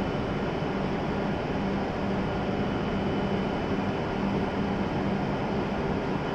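A W7 series Shinkansen train standing at the platform, its onboard equipment running with a steady hum and hiss. A low hum cuts in and out about once a second.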